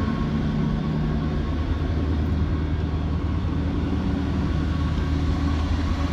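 1976 Ford L-800 fire truck's Ford 391 gasoline V8 idling steadily with a low, even hum.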